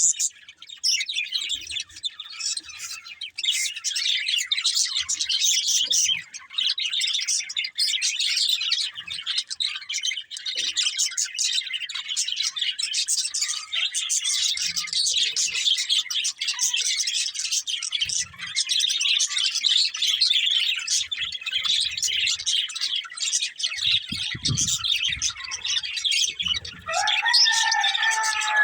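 Budgerigars chattering and chirping without a break, a dense high twittering. Near the end comes a lower, louder call that falls in pitch.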